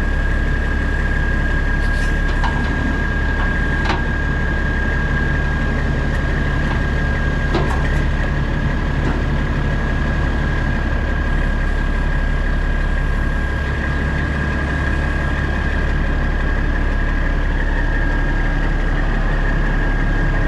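Heavy diesel engine idling steadily, with a constant high-pitched whine over it and a few sharp clicks in the first eight seconds.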